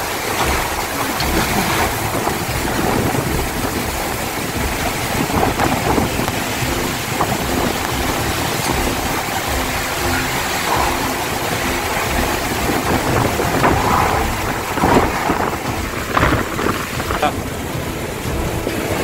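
Heavy storm rain pouring steadily, a dense hiss over a constant low rumble, with a few brief louder gusts or splashes late on.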